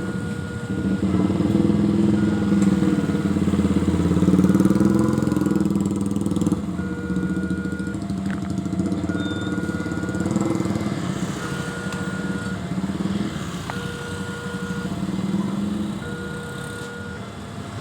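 Railway level-crossing warning alarm repeating a two-tone electronic chime, high then low, about once a second. Under it runs a steady low rumble of engines, loudest in the first six seconds and easing after.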